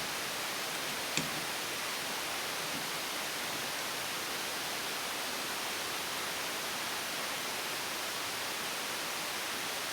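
Steady, even hiss of background noise, with one short, light click about a second in.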